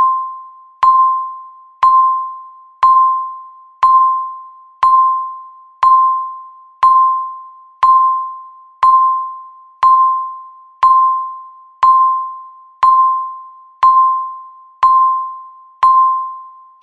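Countdown timer's ticking sound effect: a bell-like beep near 1 kHz struck once a second, each one ringing out and fading before the next, marking the final seconds to zero.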